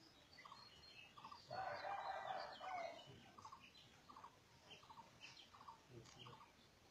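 Birds chirping: one repeats a short call about two to three times a second, with higher chirps around it. A louder call lasting about a second and a half comes near the middle.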